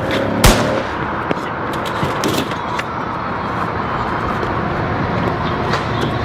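Steady motor-vehicle noise with a low rumble, broken about half a second in by one sharp, loud bang, with a few small clicks later on.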